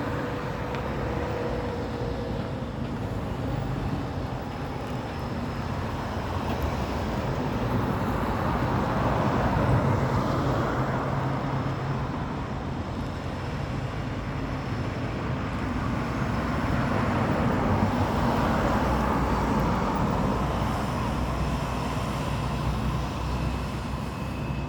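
Diesel engine of an International 8400 truck running. The sound swells about ten seconds in and again a little past halfway.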